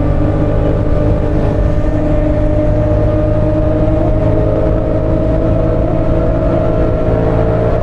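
Parallel-twin motorcycle engine pulling hard at highway speed, its pitch climbing slowly and steadily, over heavy low wind rumble.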